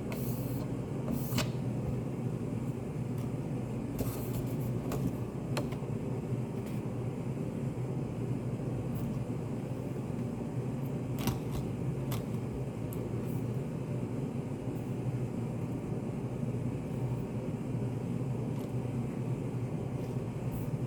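Study café room ambience: a steady low hum with scattered short clicks and taps, a few seconds apart.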